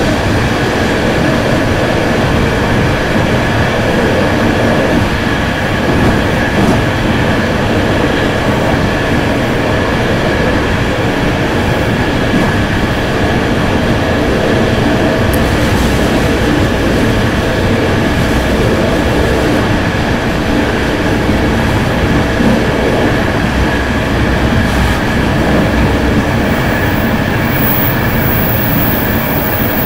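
Italian passenger train running at speed, heard from inside its rear carriage: a steady loud rumble of wheels on the rails with a thin steady whine over it.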